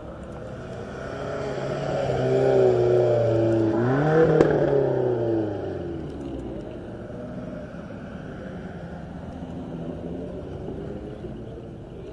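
A car accelerating past, its engine note building and loudest about three to four seconds in, with a short sharp snap at the peak. The pitch then drops away as the car passes and fades.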